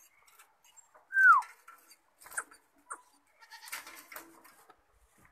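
A single loud call from a caged bird: one clear whistled note, held briefly and then falling in pitch, about a second in. Faint clicks and rustling come before and after it.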